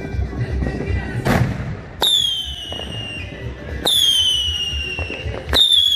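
Consumer fireworks going off: a whoosh a little over a second in, then three whistling fireworks about two seconds apart. Each starts with a sharp crack and then gives a whistle that slides slowly down in pitch for over a second.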